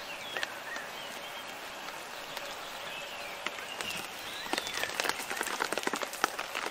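Steady rain falling on garden foliage, with a few short bird chirps. About four and a half seconds in, the dripping gets denser and louder, with many quick taps of drops.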